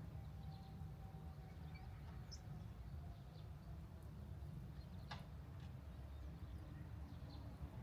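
Quiet outdoor ambience: a steady low rumble with faint, scattered bird chirps, and one sharp click about five seconds in.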